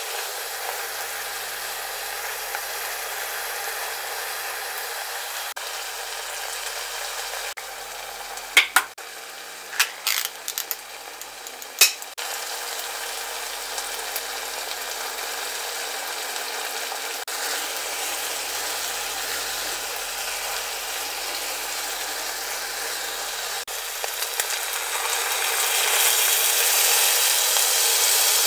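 Kimchi sizzling in hot oil as it is stir-fried in a pot, a steady hiss with a few sharp clicks about nine to twelve seconds in. Near the end water is poured into the pot and the hiss grows louder.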